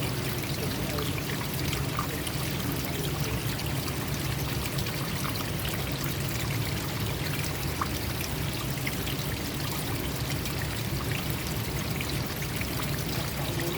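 Forest stream water flowing and trickling steadily, an even rushing with no breaks.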